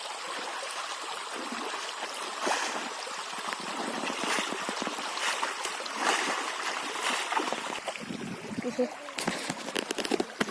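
River water running steadily, with scattered splashes and knocks that come more often near the end.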